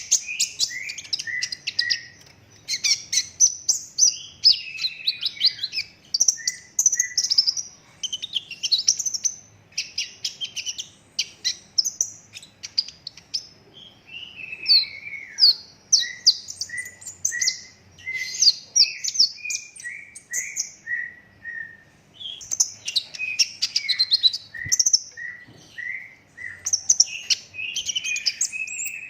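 Young kolibri ninja sunbird singing hard in rapid, tightly packed bursts: high chattering trills broken by runs of short, evenly spaced notes, about two a second, with brief pauses between phrases.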